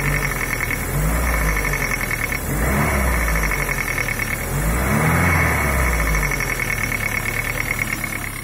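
Daewoo Nexia 8-valve petrol engine running with a steady, rapid knock, revved up briefly three times and settling back to idle each time. The owner is sure the knock comes from the crankshaft, though its cause is unknown.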